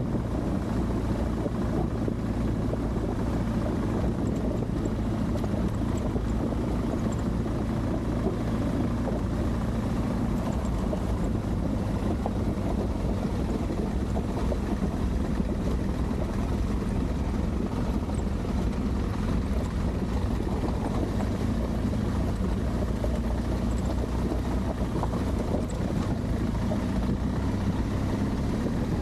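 Adventure motorcycle engine running steadily while riding along.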